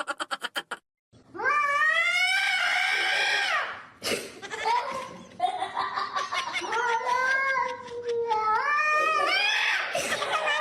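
A cat yowling in two long, drawn-out calls whose pitch wavers up and down; the second call lasts about six seconds. A brief rapid rattle comes just before them.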